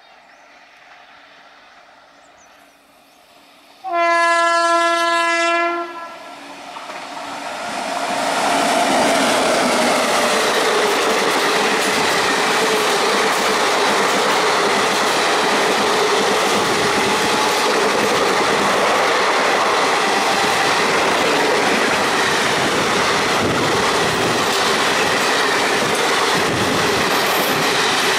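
WAP7 electric locomotive horn sounding one blast of nearly two seconds, about four seconds in. The express then passes at speed, a loud steady rush of wheels on rails and rattling coaches.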